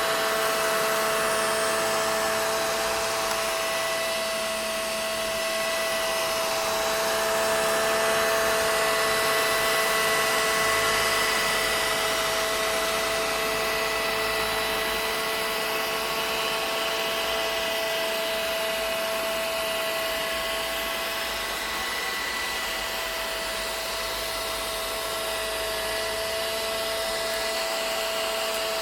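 Vacuum cleaner running steadily: an even rushing of air with a constant motor whine on top.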